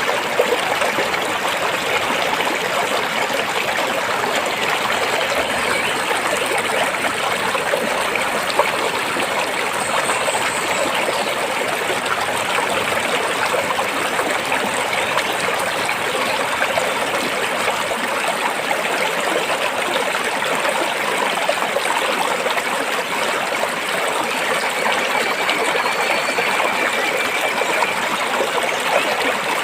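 Stream water flowing and splashing between rocks: a steady, unbroken rushing.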